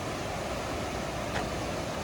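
Steady rush of flowing creek water, an even hiss with no break.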